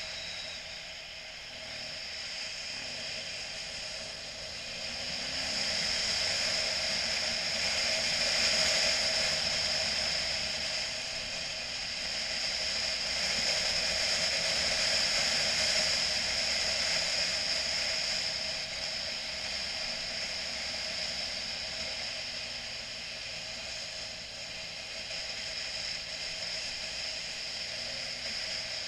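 Motorcycle on the move: steady engine and road noise that swells twice, then eases.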